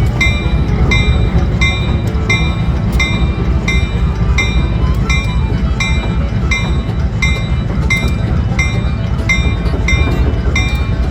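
GE U23B diesel locomotive's 12-cylinder engine running with a deep, steady rumble, while its bell rings steadily at about one and a half strokes a second.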